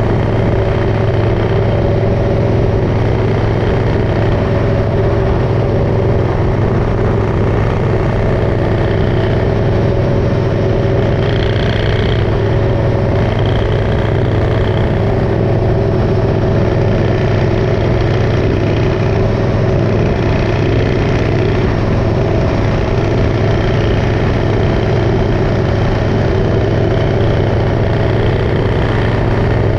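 Motorcycle engine running steadily on the road, a constant drone that holds one speed without revving up or down.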